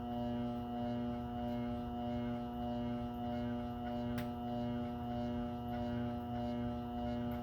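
Treadmill motor driving a homemade power hammer, running at a steady speed with a steady hum and a soft regular pulse about one and a half times a second.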